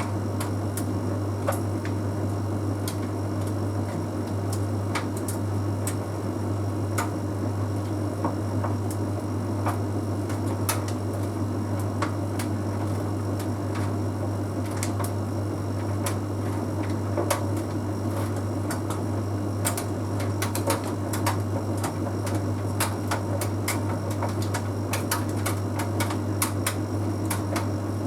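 Bosch Series 6 heat pump tumble dryer running mid-cycle: a steady low hum with irregular light clicks and taps as the load tumbles in the drum.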